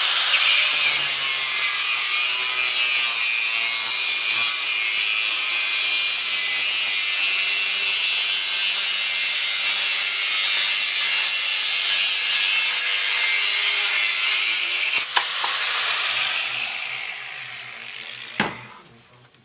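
Handheld power grinder working steel plate, running steadily at full speed. About fifteen seconds in it is switched off with a click and winds down with a falling whine. A short knock follows near the end.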